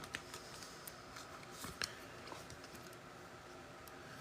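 Trading cards being handled and sorted by hand: a few light clicks and snaps of card stock, one sharper snap a little under two seconds in.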